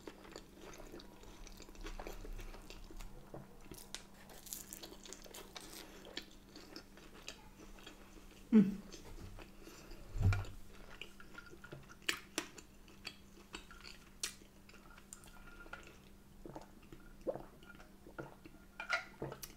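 Close-miked chewing and mouth sounds of a person eating corned beef hot pot with roast potato, with small clicks and a couple of soft thumps about halfway through. Near the end, a sip through a straw.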